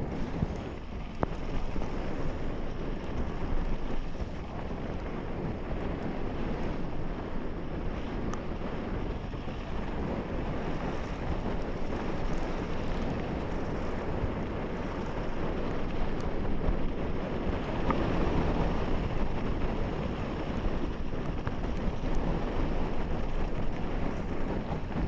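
Wind buffeting the microphone: a steady rushing noise, heaviest in the low end, with a few faint clicks.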